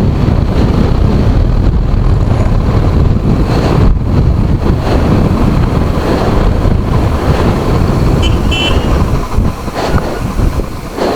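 Wind rushing over the microphone on a moving vehicle, with road and engine noise underneath. About eight seconds in, a short high-pitched toot sounds briefly.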